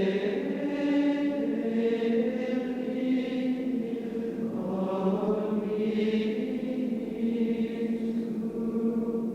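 Soundtrack music: wordless choral chanting with long held notes that shift in pitch every second or so.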